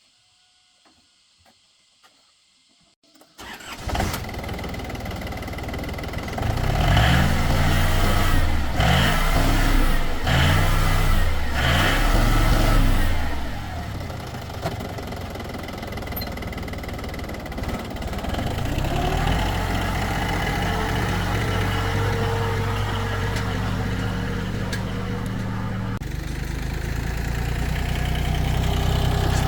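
Tractor engine starting about three seconds in, revving up and down several times, then running steadily, a little louder near the end.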